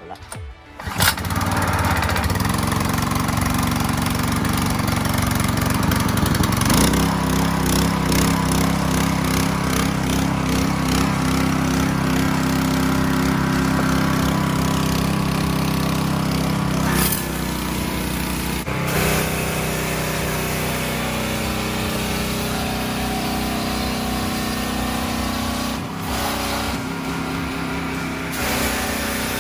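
Small gasoline engine of a pressure washer starting about a second in, then running steadily, its note shifting a couple of times.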